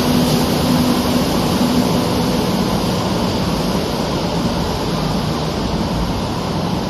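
A large vehicle running, a loud steady rumble with a low hum that drops slightly in pitch over the first few seconds.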